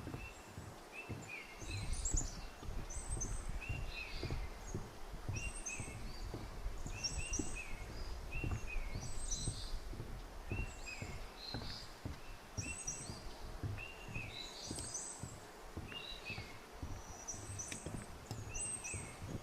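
Footsteps walking on a forest trail, with birds singing short, high phrases that repeat every second or two.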